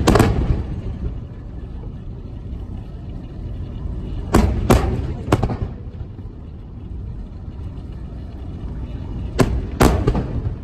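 Aerial fireworks shells bursting with sharp bangs and a short echo: one right at the start, three in quick succession about four to five seconds in, and two more near the end, over a steady low rumble.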